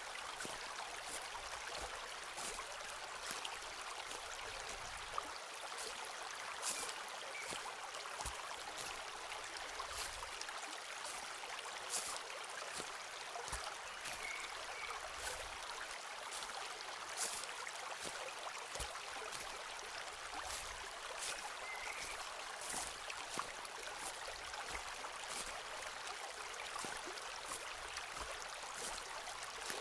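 Footsteps on a forest path, with irregular crisp crunches and clicks of leaf litter and twigs underfoot and a few soft low thumps. Underneath is a steady rushing hiss, with a few faint short bird chirps.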